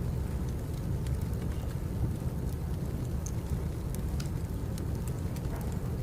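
Wood fire burning: a steady low rumble with scattered small crackles and pops.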